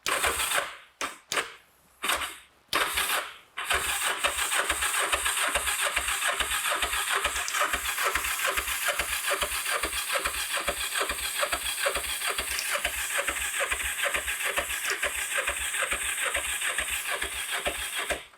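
Kawasaki GPZ500S water-cooled twin being turned over on its electric starter without catching. A few short presses come first, then a long steady crank with an even chug of about three to four compression strokes a second, on a bike that has stood unused for four years.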